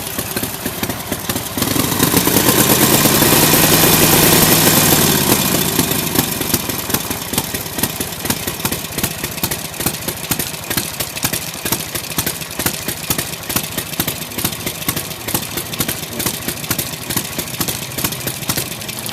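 Restored 1946 Harley-Davidson UL flathead V-twin running: it is revved up about two seconds in, held for a few seconds and eased back down, then settles into a steady idle.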